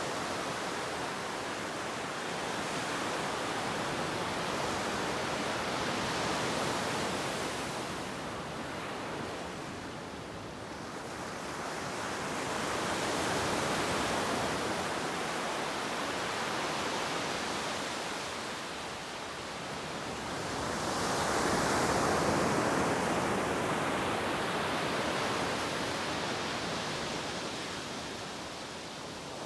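Ocean waves breaking and washing up on a beach, a steady rush that swells and ebbs slowly, loudest about two-thirds of the way through.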